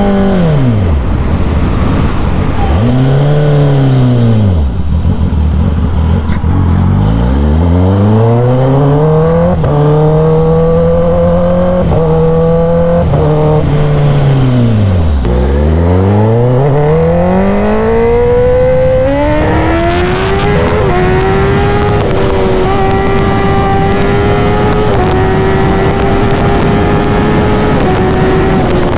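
Kawasaki ZX-10R inline-four superbike through an SC Project aftermarket exhaust, loud. The engine is revved up and drops back several times, then holds a steadier, higher pitch with small stepwise changes for the last third as the bike rides on.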